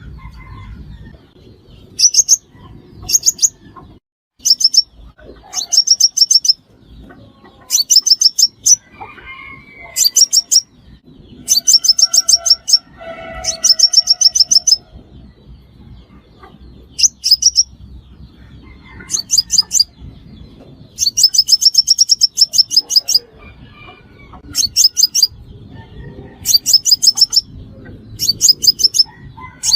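Sunbird song: bursts of rapid, thin, very high chirps, each lasting about a second, repeated every second or two.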